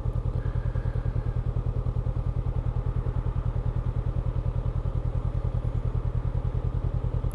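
Honda CB500X's parallel-twin engine idling steadily, with an even, rapid pulsing beat.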